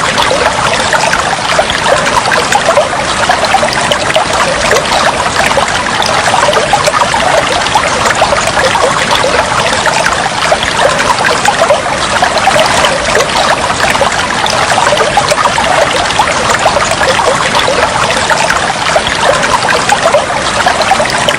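Flowing water trickling and splashing steadily, a continuous dense babble with no break.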